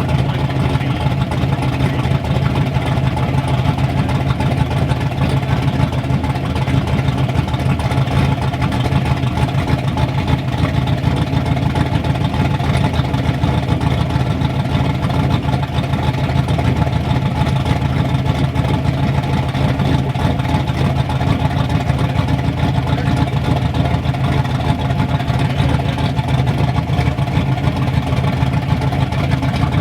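Turbocharged Ford Ranger engine with a freshly rebuilt top end idling steadily on one of its first runs, being heat-cycled.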